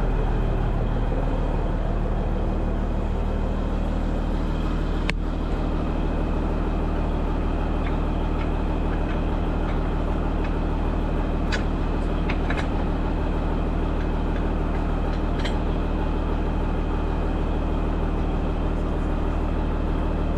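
Case 2670 tractor's diesel engine running steadily, with a few light clanks about five seconds in and again around twelve and fifteen seconds.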